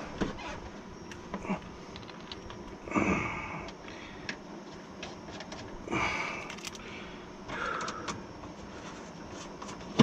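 Small metal bolts and hardware being handled inside a car door during a window regulator installation: scattered light clicks and clinks, with a few louder rattles about three and six seconds in.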